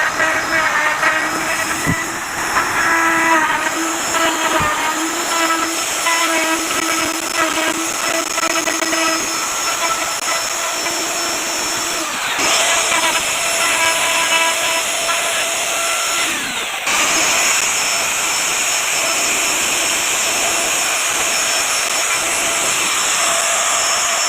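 Electric wood router running and cutting into wood, a steady whine over a hiss. The sound shifts abruptly twice, about twelve and seventeen seconds in.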